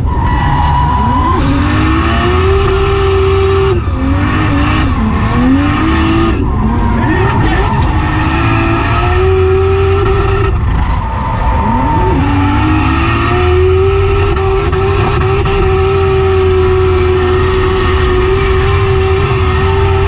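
Drift car's engine heard from inside the cabin, revs sweeping up and down several times and then held high and steady for long stretches during the slide, over a constant loud rush of tyre and road noise.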